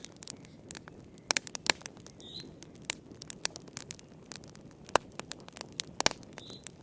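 Wood fire burning in a fireplace, crackling: irregular sharp pops and snaps, several close together, over a soft low rumble of the flames.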